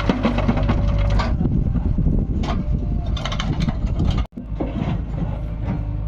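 Diesel engine of a JCB 3DX backhoe loader running steadily under work, with bursts of clanking and scraping from the bucket and mud. The sound cuts out for an instant a little past four seconds in, then resumes.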